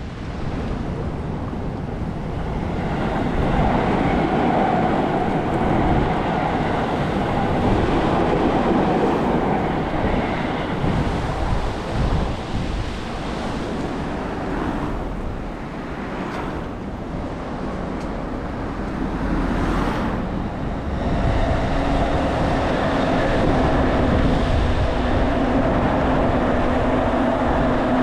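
Wind gusting on the microphone over traffic noise. About three-quarters of the way through, a steady engine hum with a couple of held tones comes in.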